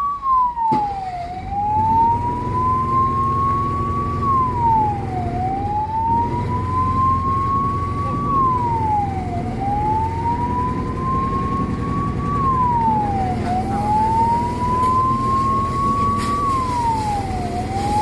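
Fire engine siren wailing, rising slowly in pitch and then dropping quickly, in cycles about every four seconds, over a low engine rumble.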